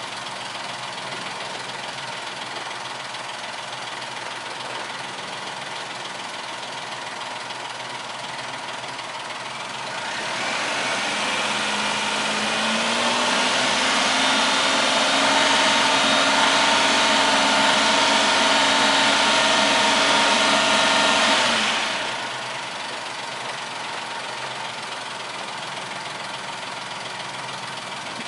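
Daihatsu Tanto Custom RS's 660 cc turbocharged three-cylinder engine idling, then revved up smoothly about ten seconds in and held at a steady higher speed for roughly eight seconds before dropping back to idle.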